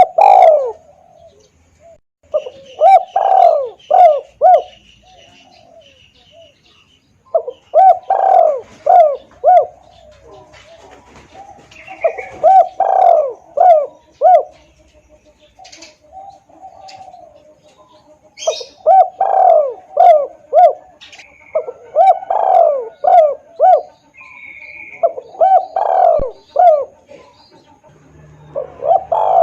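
Spotted dove cooing as a lure call: about seven phrases of several quick, loud coos each, repeated every few seconds. Faint chirps from other birds sound between the phrases.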